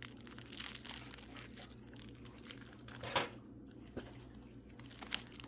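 Packing material crinkling and rustling as wrapped mineral specimens are handled and unwrapped from a box, with a louder rustle about three seconds in, over a steady low electrical hum.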